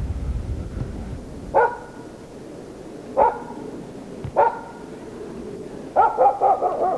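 A dog barking: three single barks a second or so apart, then a quick run of about five barks near the end. A low rumble, like wind on the microphone, fades out in the first second and a half.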